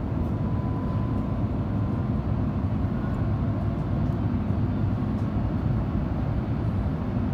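Steady cabin noise inside an Airbus A350 in flight: an even low rumble of airflow and its Rolls-Royce Trent XWB engines, with a faint thin tone above it.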